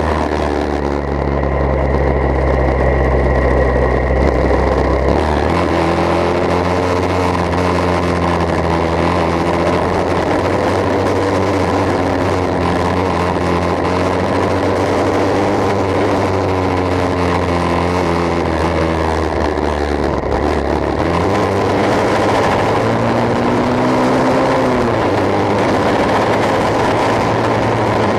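Engine running through a bamboo exhaust pipe: a steady low drone whose pitch rises and falls gently several times.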